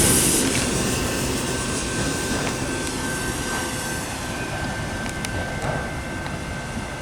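Canadian National freight train rolling away: the rumble of its wheels and cars fades steadily, with a thin, steady high tone throughout.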